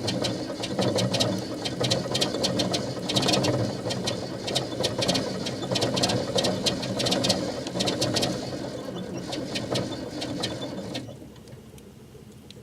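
Old diesel engine running rough on a cold start, with rapid, uneven clattering over a low running note; the sound stops abruptly about eleven seconds in.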